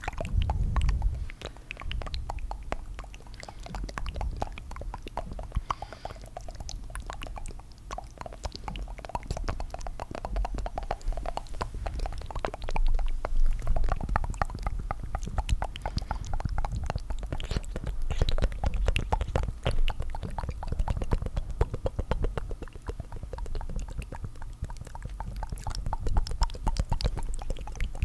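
Close-miked ASMR tongue fluttering, several tracks layered: a dense, continuous stream of rapid wet mouth clicks and flutters.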